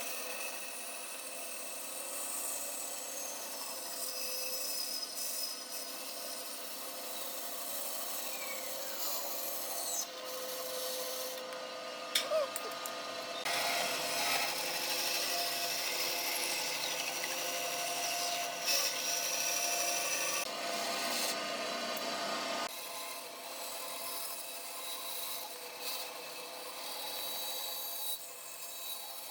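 Wood being scraped and cut by a woodworking tool: a steady rasping with faint sliding tones, louder for a stretch in the middle.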